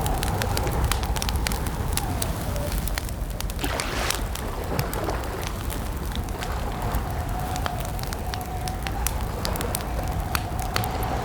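Campfire crackling: a steady stream of sharp pops and snaps over a low rumble. A faint wavering tone runs behind it, dropping out a few seconds in and coming back past the middle.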